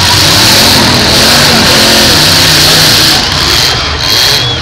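Demolition derby cars' engines revving loudly, their pitch rising and falling, over a steady high hiss.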